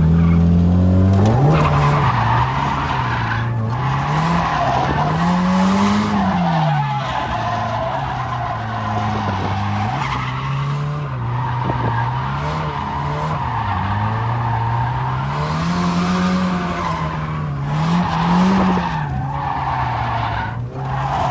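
Drift car's engine revving up and down again and again while its tyres squeal through a slide.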